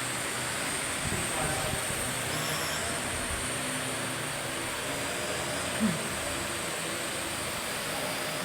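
Parrot AR.Drone 2.0 quadcopter's four propellers whirring steadily in flight, with one short sharp blip about six seconds in.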